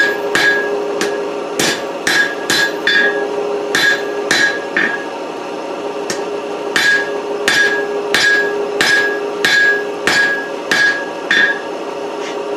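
Blacksmith's hammer striking a hot 4140 tool-steel bar on the anvil while drawing out a square taper: steady blows about two a second, each with a brief ring. The hammering stops for about two seconds near the middle, then resumes.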